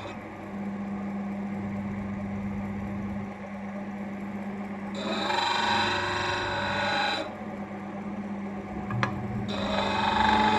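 Abrasive scraping of a steel blade in two spells, about five seconds in for two seconds and again near the end, over a steady low hum, with a single sharp click just before the second spell.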